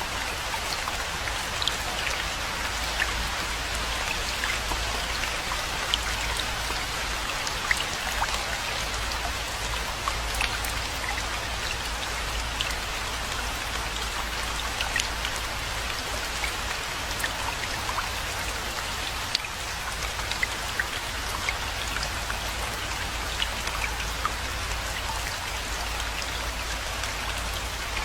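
Steady rainfall, with many individual drops clicking sharply on surfaces over an even hiss and a constant deep rumble underneath.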